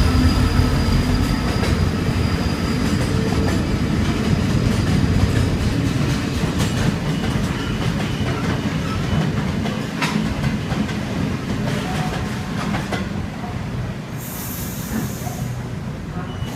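Freight train headed by diesel locomotives 8152 and AN2 passing at a platform. The locomotives' engine drone fades in the first couple of seconds, then the wagons roll by with rail clatter and wheel squeal, slowly getting quieter. A brief high-pitched sound comes about fourteen seconds in.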